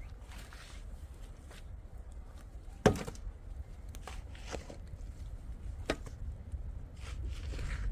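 A few scattered sharp knocks, the loudest about three seconds in, over a low steady rumble, with a soft rustle near the end.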